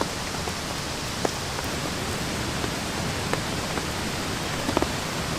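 Steady rain falling on a tent's waterproof fabric, with a few separate louder drips landing about a second in, midway and near the end.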